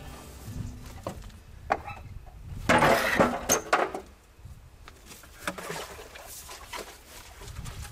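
A scattering of knocks and clinks, with a louder, denser clatter and scraping about three seconds in, then quieter knocks.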